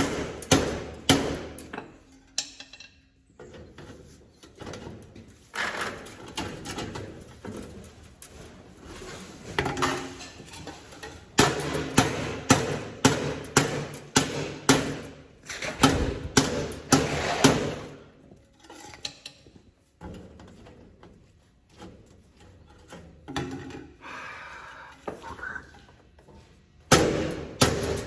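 Hammer striking metal in several runs of sharp blows, about two a second, each with a short metallic ring, with quieter clatter and scraping between the runs.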